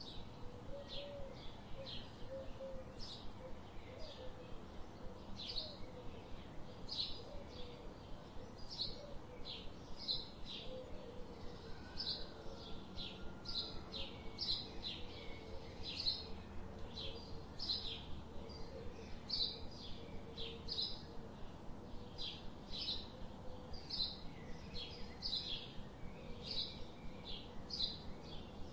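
A bird chirping over and over, short high chirps a little more than once a second, with a fainter lower warbling underneath.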